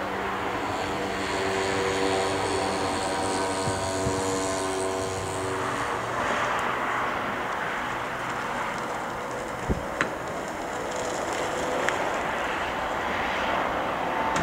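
Airliner engines running at an airport: a whine of steady tones for the first six seconds or so gives way to a broad rush of engine noise. Two short clicks about ten seconds in.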